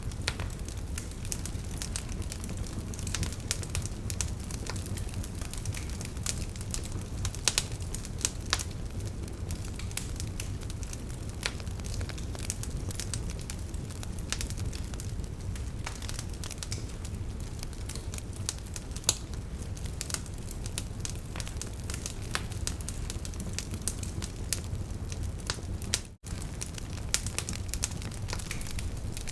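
Wood fire crackling: irregular sharp pops and snaps over a steady low rumble of burning logs, cut by a brief drop-out near the end.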